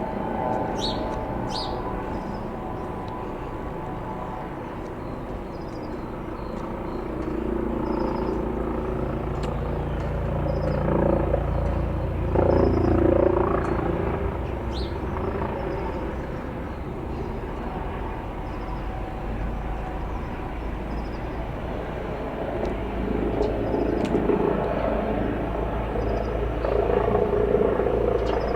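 Eurocopter EC135 helicopter flying past, a steady rotor and turbine rumble that swells louder twice as it moves, with small birds chirping over it.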